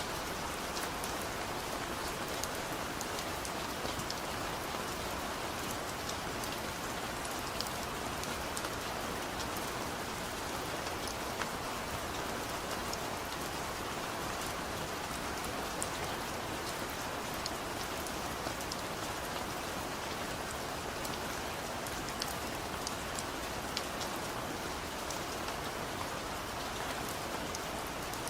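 Steady heavy rain falling on a surface, a continuous hiss with many sharp individual drop ticks scattered through it; no thunder.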